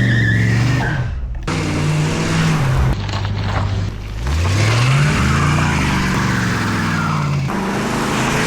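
Car engine running and revving in a few abruptly cut-together clips, its pitch climbing about four seconds in. A high wavering squeal sits over the first second.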